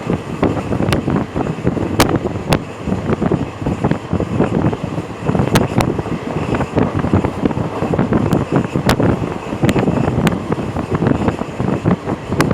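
A vehicle running at speed, with wind buffeting the microphone and irregular sharp knocks and clicks throughout.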